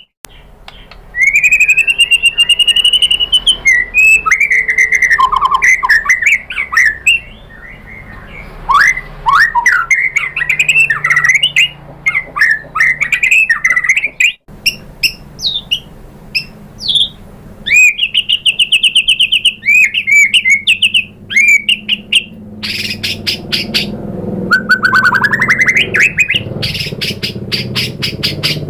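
White-rumped shama singing a fast, varied song of rising and falling whistles, sharp clicks and rapid repeated-note trills, with short pauses between phrases.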